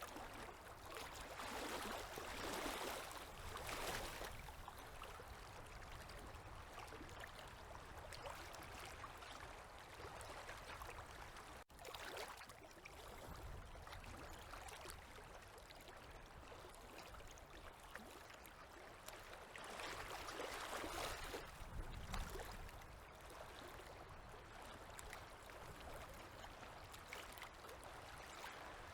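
Small river waves lapping and washing at the shore: a soft steady wash that swells louder twice, a couple of seconds in and again about twenty seconds in.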